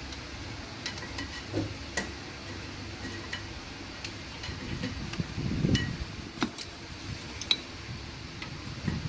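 Scattered light metallic clicks and clinks of tools and brake parts being handled during a brake-pad change, with a low rumble about five to six seconds in.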